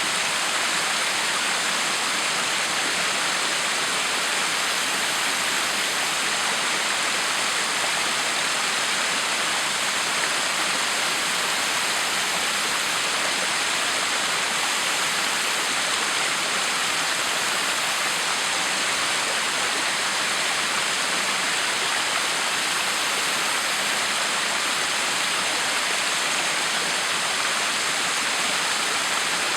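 Backyard waterfall: water pouring and splashing in a steady, even rush that does not change.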